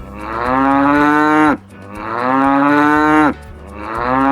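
Domestic cow mooing: three long moos, each about a second and a half, each dropping in pitch as it ends.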